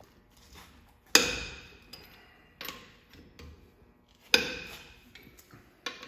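Metal-on-metal clanks from a wrench being worked on a truck wheel's lug nuts: two loud ringing strikes about three seconds apart, with fainter knocks between them.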